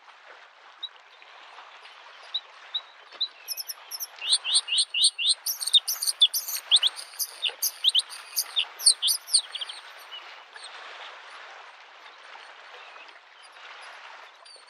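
Bluethroat singing a burst of rapid, varied notes, from about four seconds in to past the middle, over the steady wash of small lake waves lapping the shore.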